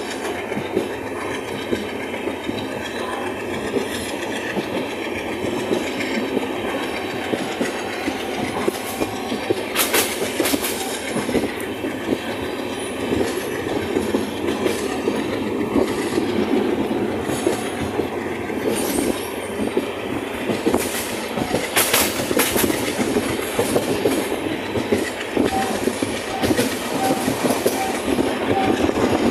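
Passenger train running, heard from a coach window: a steady rumble with wheels clattering on the rails. There are a few sharper clatters about ten seconds in and again around twenty-two seconds.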